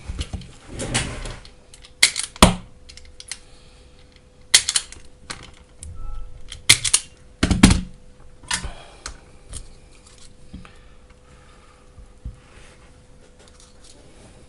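Irregular sharp clicks and short clatters of small tools and wires being handled at a workbench during battery-pack repair. They are thickest in the first half and thin out after, over a faint steady hum.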